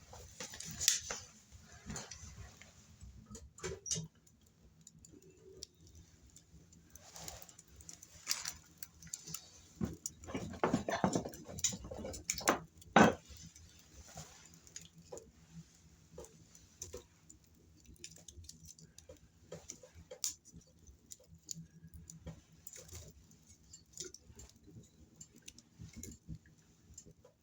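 Firewood crackling in a small wood-burning tent stove: irregular pops and clicks, busiest and loudest about ten to thirteen seconds in.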